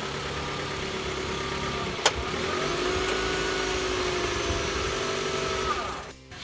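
A motor-vehicle engine running steadily, with one sharp click about two seconds in.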